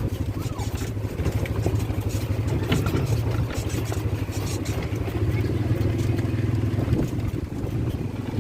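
A vehicle's engine running steadily, a low pulsing drone.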